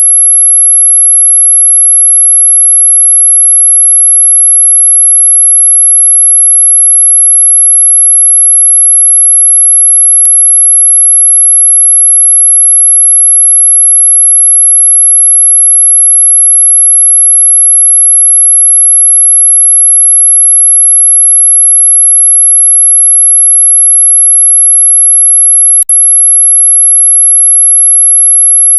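Loud, steady, very high-pitched pure tone, played as an anti-mosquito 'ultrasonic' repellent sound. There is a faint click about ten seconds in and a brief dropout near the end.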